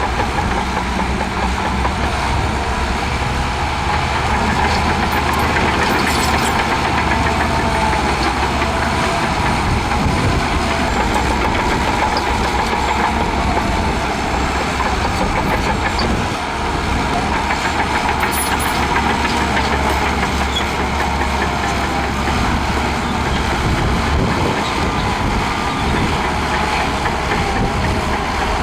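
Shantui DH17C2 bulldozer's diesel engine running steadily.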